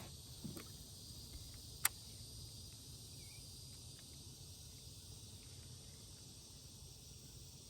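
Faint steady insect chorus, a high-pitched drone, with a single sharp click about two seconds in.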